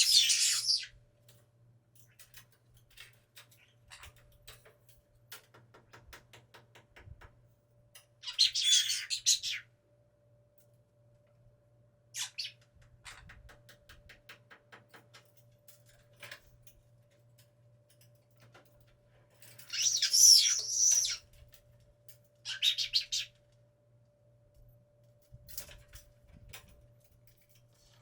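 Sun conure giving harsh, screechy calls in five separate bouts of up to about a second and a half, the longest and loudest about twenty seconds in, with faint small clicks between them. A faint steady hum lies underneath.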